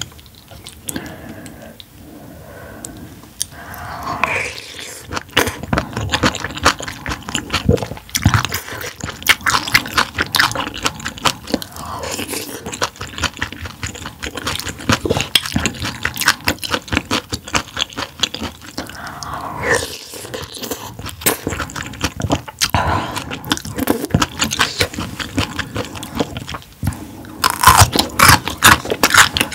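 Close-miked eating sounds: a person chewing, with many small clicks and smacks of the mouth and utensils, growing louder and denser near the end.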